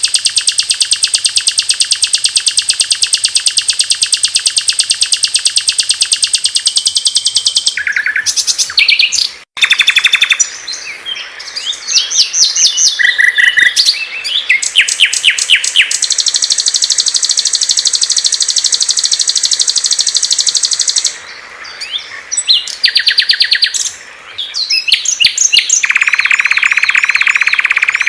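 Small songbirds singing loud, high, rapid trills and chattering chirps, one long buzzy trill for the first several seconds and another in the middle, with varied short phrases between and an abrupt break about a third of the way in, as of songs of different birds spliced together.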